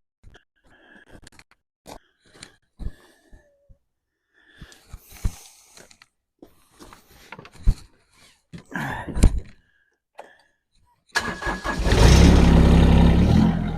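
A series of scattered knocks and clicks, then the Mahindra eMax 20 HST sub-compact tractor's three-cylinder diesel engine starts about eleven seconds in. It runs loud, then eases to a steady run near the end.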